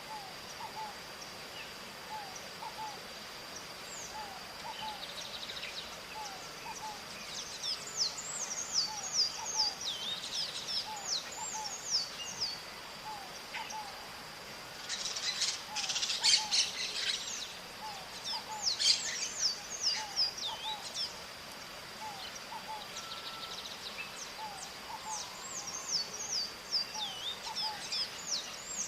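Maritaca parrots calling: bursts of rapid, harsh, chattering high calls that come and go several times, loudest a little past the middle. Under them run a steady high-pitched whine and a soft low note repeating about once a second.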